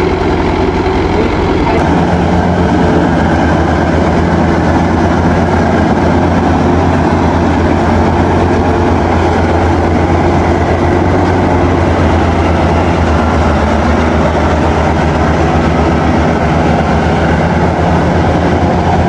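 Rice combine harvester engine running at a steady working load, a loud unbroken drone with a mechanical rumble.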